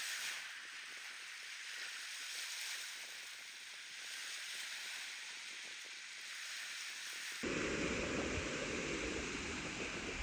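Steady wash of small waves on a sandy lakeshore. About seven seconds in, wind begins buffeting the microphone with a low rumble.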